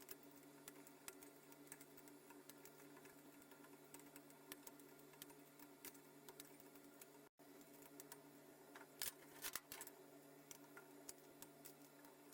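Near silence: a faint steady hum with scattered light clicks and ticks, and a brief dropout about seven seconds in.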